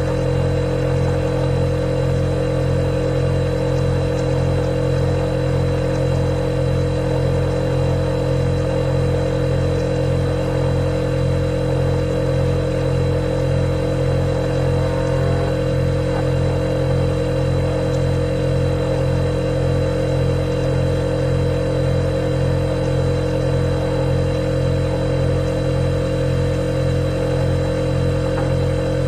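Refrigerator running with a steady, unchanging hum: a low drone with a steady mid tone and a faint high whine above it.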